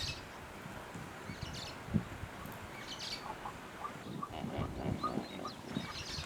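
Small birds chirping and calling in open country, with a run of short, evenly spaced notes about four to five seconds in and a low thud about two seconds in.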